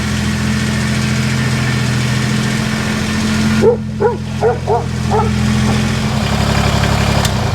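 A dog barking about five times in quick succession around the middle, over a steady machine hum. The hum changes about six seconds in and cuts off near the end.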